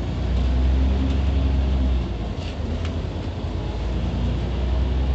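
Scania CN94UB OmniCity city bus driving, its diesel engine a heavy low drone inside the cabin. The drone swells early, eases about two seconds in, then builds again, with a couple of faint rattling clicks.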